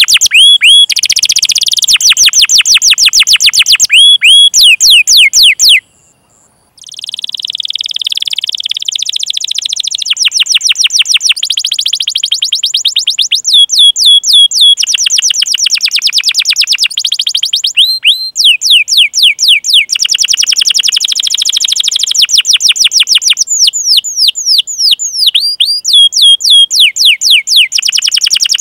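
Domestic canary singing a long, loud song of fast trills: rapid runs of repeated sweeping chirps, with a brief pause about six seconds in.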